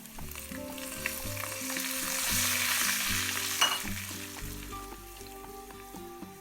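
Garlic and coriander frying in a pan, a steady sizzle that swells about two seconds in and eases off later, with one sharp click partway through. This is the garlic-and-coriander frying for molokhia, the garlic going a little red.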